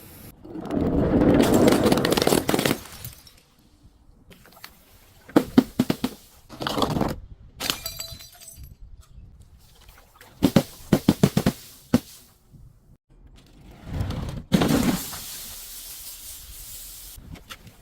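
Objects being crushed and broken, glass among them. A long crunching noise comes first, then several quick clusters of sharp cracks and snaps, one with a brief glassy ring, and another loud crunch near the end.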